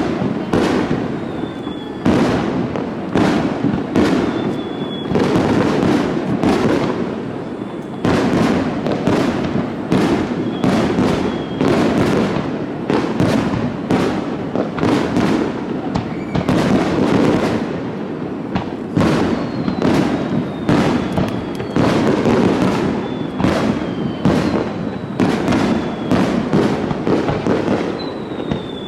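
Aerial fireworks bursting in rapid, almost continuous succession, with a few faint falling whistles among the bangs.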